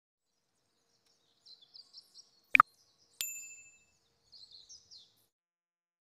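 Small bird chirping in short high bursts, with one sharp loud click about two and a half seconds in and a bright bell-like ding half a second later that rings out briefly.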